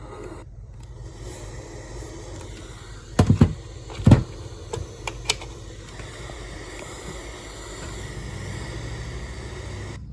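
Radio static from a weather radio receiver: a steady hiss with a low hum, broken by a cluster of sharp crackles about three to four seconds in and a few smaller clicks just after.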